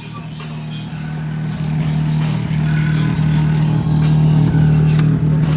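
A 2006 Nissan Maxima's 3.5-litre V6 running through an aftermarket cat-back exhaust. It holds a steady low drone at one pitch, growing louder over the first two seconds and then staying loud.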